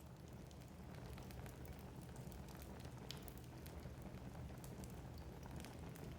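Wood fire burning in a fireplace, crackling: a soft steady rumble with scattered small pops, one sharper pop about three seconds in.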